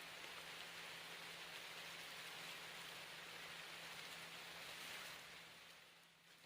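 Light rain falling, a faint steady hiss that fades away about five seconds in.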